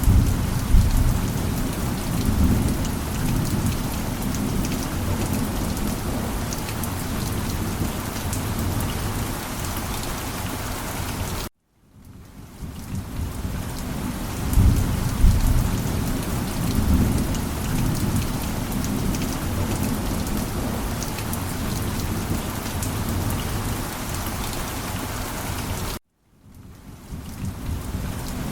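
Steady heavy rain with rolling thunder rumbling low underneath, swelling about a second in and again around the middle. The sound cuts out to silence for an instant twice, about eleven seconds in and again near the end, and fades back in each time.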